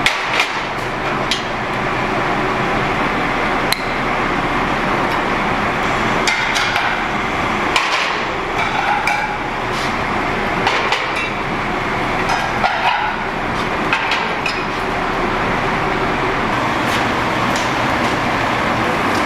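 Irregular sharp knocks and clinks over a steady noisy background.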